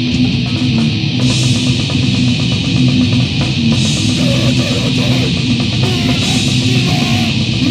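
Grindcore/noise band playing: a loud, unbroken, chaotic wall of distorted guitar and drums.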